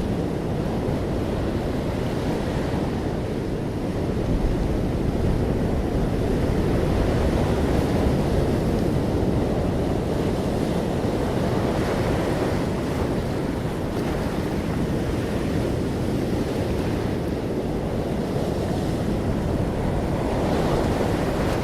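Ocean waves breaking gently on a shore: a continuous low rush of surf that swells and eases slowly.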